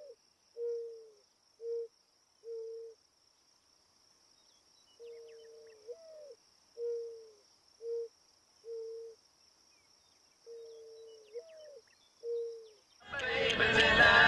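Mourning dove cooing: a soft, low coo that swells up and falls, followed by three or four short coos, the phrase repeated three times over a steady faint high insect buzz. Near the end a much louder sound cuts in over everything.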